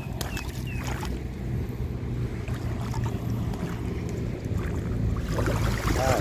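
Low steady rumble of a small boat at sea, with wind on the microphone, and a few faint clicks and short chirps in the first second.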